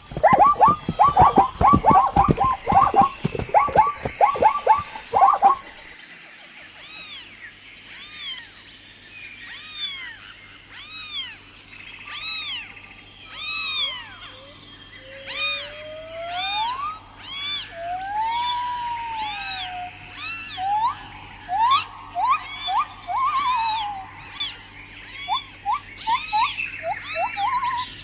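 A rapid run of short, loud animal calls for about five seconds, then a cat meowing over and over in high-pitched mews, roughly one a second, with a few lower, drawn-out meows among them.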